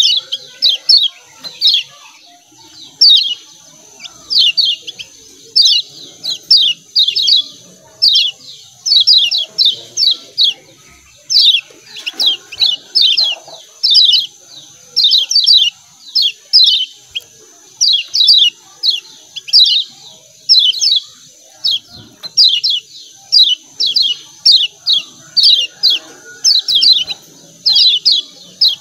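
Yellow white-eyes (kecial kuning) giving rapid 'ciak ciak' chip calls: clusters of short, high, downward-sweeping notes, several a second, with no break. A faint steady high whine runs beneath them.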